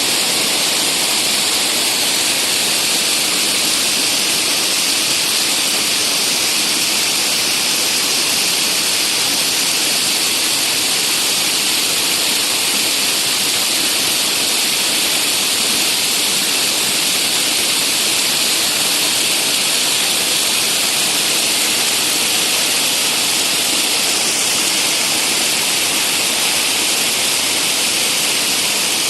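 Shumka waterfall's steady rushing roar of falling water, close and loud.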